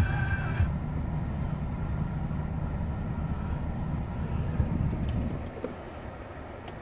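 2003 Chevrolet Trailblazer engine idling at about 1000 rpm, heard from the driver's seat. The sound drops noticeably about five seconds in.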